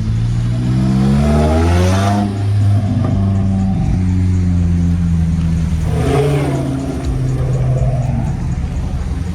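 Car engine revving: it climbs in pitch for about two seconds, drops back to a deep, steady running note, and is blipped again about six seconds in.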